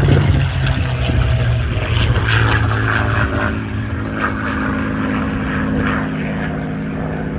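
P-51 Mustang's Packard-built Merlin V-12 engine and propeller running loudly in flight. The engine note falls over the first few seconds as the plane passes, then holds steady.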